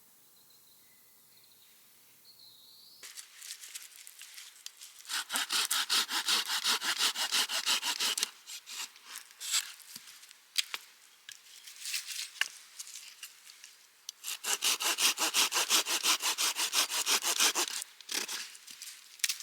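Hand saw cutting firewood in two bouts of fast back-and-forth strokes, with scattered knocks and scrapes of wood between them.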